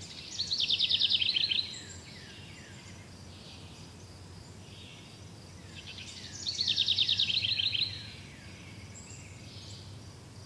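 A songbird singing twice, each song a fast trill of repeated down-slurred notes lasting about a second and a half, the two about five seconds apart. Fainter bird calls come in between, over a low steady hum.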